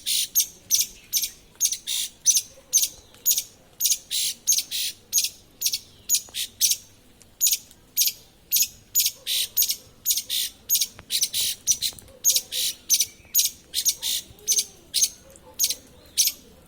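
A small bird calling over and over, short sharp high-pitched chirps at about three a second without a break.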